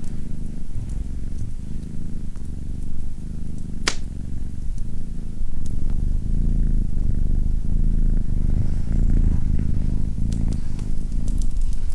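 Domestic cat purring steadily, with a few sharp crackles from a fireplace fire, the clearest about four seconds in.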